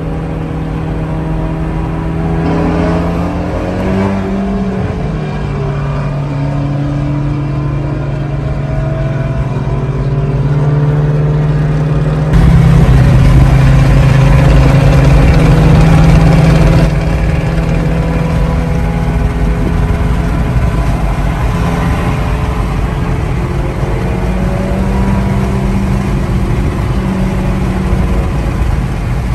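A car's 2.0-litre turbocharged four-cylinder engine droning with road noise, heard from inside the cabin while cruising at highway speed. The engine pitch rises and falls briefly a few seconds in, and a louder stretch starts suddenly about twelve seconds in and cuts off about five seconds later.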